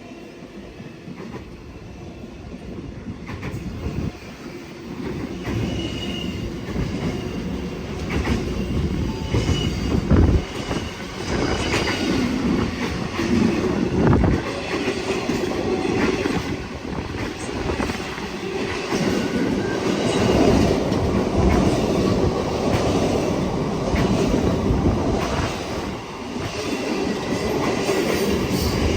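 Long freight train's wagons rolling past close by, with a heavy rumble and wheels clattering over the rail joints, and brief faint wheel squeal now and then. The sound builds over the first few seconds and then stays loud.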